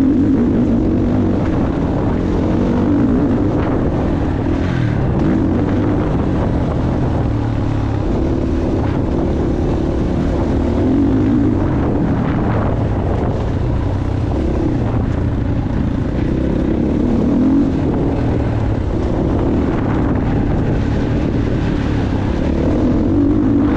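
Motocross bike engine running hard, its pitch rising and falling over and over as the throttle opens and closes, with wind noise on the microphone.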